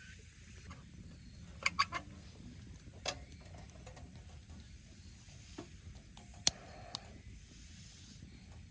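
A few sharp clicks and knocks, three close together about two seconds in and a single loud one past the middle, over a low steady background rumble.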